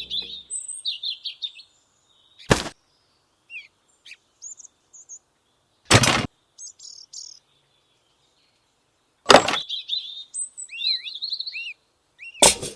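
Birds chirping in short rising and falling calls, broken four times, about three seconds apart, by a short sharp sound that is louder than the birdsong.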